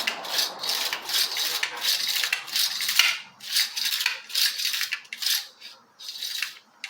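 Rhythmic scraping strokes from hand work on a chainsaw part, about two a second, thinning out near the end.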